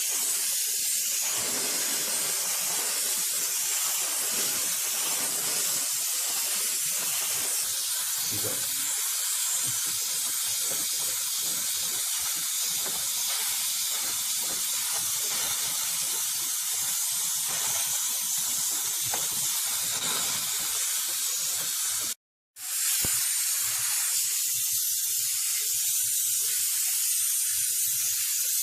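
Steady hiss of a spray jet washing a heat pump unit. It stops for a moment about two-thirds of the way through, then carries on.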